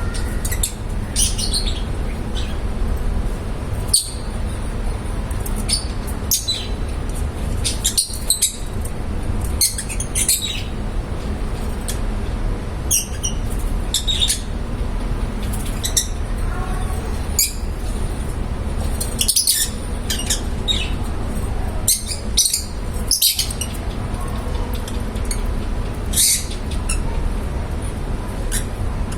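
Small pet parrots (love birds) chirping and squawking in short, high calls scattered irregularly, over a steady low rumble.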